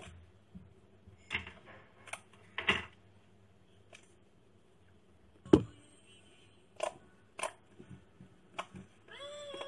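Slime being handled: scattered short clicks and brief crackly squelches, with one louder thump about five and a half seconds in.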